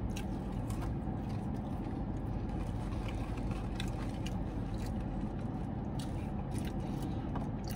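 A man chewing fries, with faint scattered mouth clicks, over a steady low hum inside a car.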